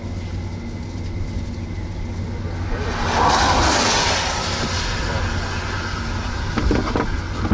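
Road noise and engine hum inside a moving car, with a louder rushing swell that builds about three seconds in and fades over the next second or two.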